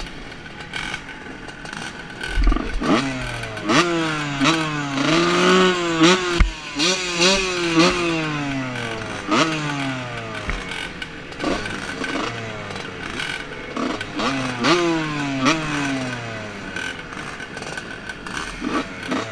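Vintage motocross motorcycle engines revving hard, their pitch climbing and dropping again and again as the bikes accelerate and shift through the gears.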